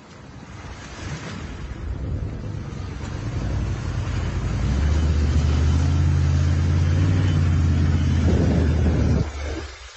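An engine running, growing louder over the first few seconds and then holding a steady low hum from about halfway through, cutting off abruptly near the end.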